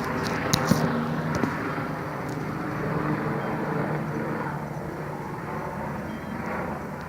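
Helicopter flying over, its steady rotor and engine noise slowly fading as it moves away.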